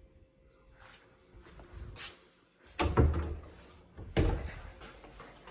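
A storage closet or cabinet door being opened and shut, with two sharp knocks a little over a second apart near the middle.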